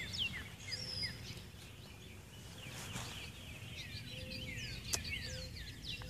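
Songbirds chirping: quick runs of short falling notes in the first second and again from about two and a half seconds on, over low outdoor background noise. There is one sharp click about five seconds in.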